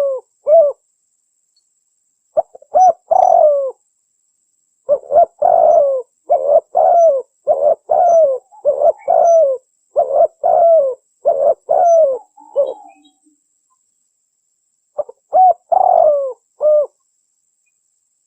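Spotted dove (tekukur) cooing in repeated phrases. A short bout comes near the start, then a long run of coos of about eight seconds, then another short bout near the end, with silent pauses between.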